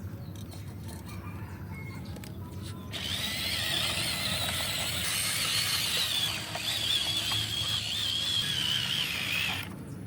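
Remote-control dump truck's small electric motor and gears: a low hum, then a high wavering whine starting suddenly about three seconds in and cutting off near the end as the motor works.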